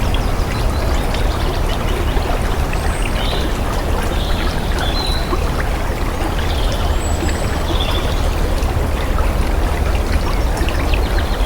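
Running water flowing steadily, with a deep rumble beneath the rush. A few short, faint high chirps sound over it.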